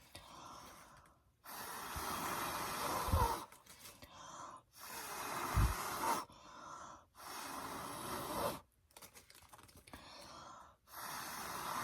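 Air blown in long hissing gusts across wet poured acrylic paint, blowing out the paint to open up blooms and cells. There are four blows with short pauses between them.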